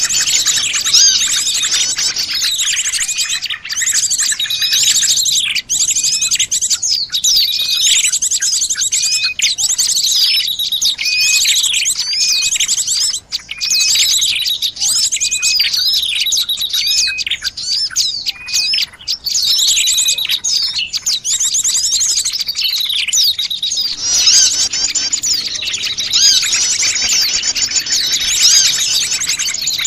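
Busy chorus of many small wild birds chirping and twittering over one another, with quick down-sweeping notes and repeated high calls, a mixed-species lure recording for attracting small birds.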